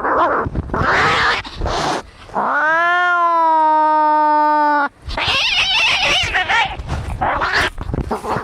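Angry cats fighting: harsh, noisy cries, broken about halfway by one long yowl that rises in pitch, holds steady and cuts off suddenly, then more harsh noisy cries.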